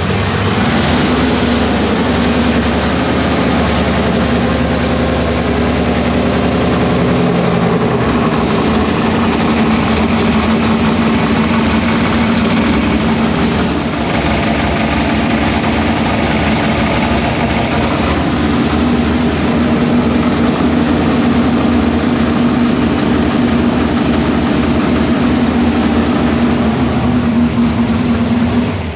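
Rebuilt 305 small-block Chevy V8 with open headers running steadily at idle, then cut off abruptly at the end.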